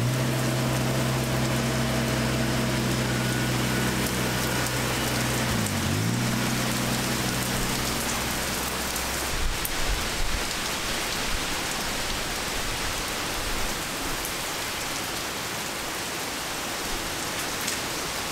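Heavy rain pouring on gravel and flagstones, with the three-cylinder diesel engine of a Kubota BX23S compact tractor running as it drives off. The engine briefly drops in pitch and recovers about six seconds in, then fades out about nine seconds in, leaving only the rain.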